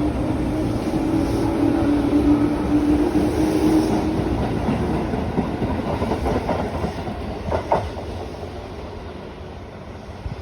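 Tobu 8000 series electric train pulling out and running away on the rails: a steady hum in the first few seconds, then a couple of wheel clacks over rail joints as the sound fades.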